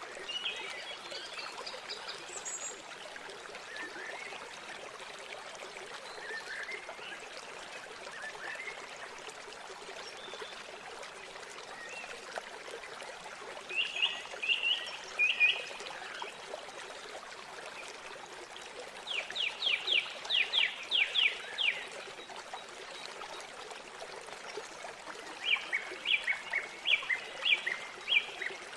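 River water running in a steady trickle, with small birds calling over it. There are scattered chirps early on and three bursts of quick, repeated high notes: about fourteen seconds in, around twenty seconds in (about ten rapid notes) and near the end.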